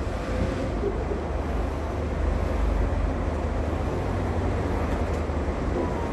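A vehicle running, a steady low rumble of engine and road noise with no breaks.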